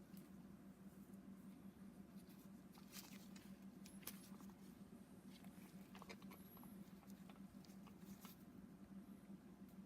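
Near silence over a steady low hum, with faint, irregular clicks and scrapes of hand tools being handled on the engine.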